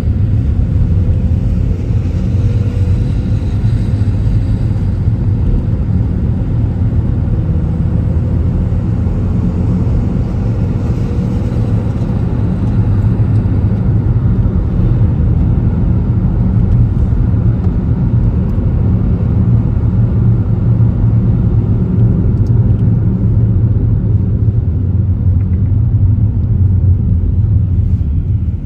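A car driving on city streets: a steady low rumble of engine and tyres on the road, with a faint rising whine twice in the first twelve seconds as it picks up speed.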